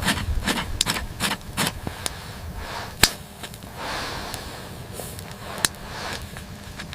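Irregular sharp clicks and knocks, closely spaced for the first two seconds, then sparser, with one loud crack about three seconds in and another near the end, over a soft rushing noise.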